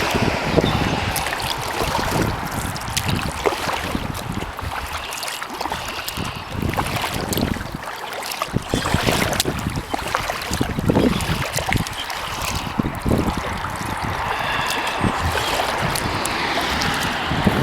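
Kayak paddle strokes splashing and dripping water at an uneven pace, with knocks against the boat, over a steady hiss of highway traffic. A few short high chirps come through faintly.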